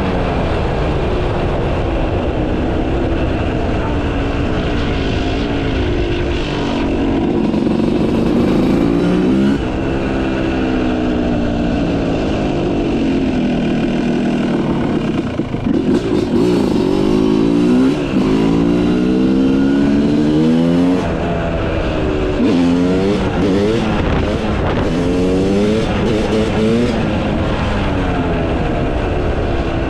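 Yamaha YZ250 two-stroke single-cylinder dirt bike with a Pro Circuit exhaust, ridden hard. The engine revs up and down again and again as the throttle opens and closes, with several sharp breaks in pitch where it shifts or the throttle is chopped.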